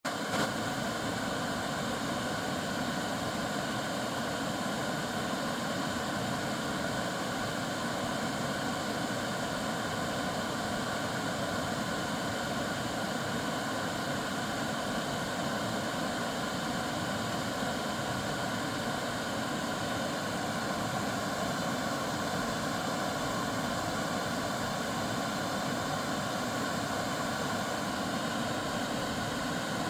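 Small waterfall, water falling and rushing with a steady, even noise that does not change.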